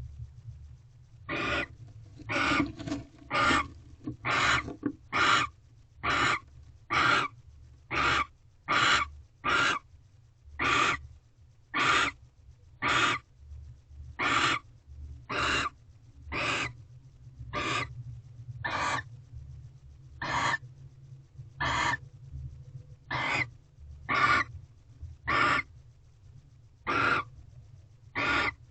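Barn owl giving a long series of short, harsh hissing calls, about one a second and quicker for a few seconds near the start, over a steady low hum.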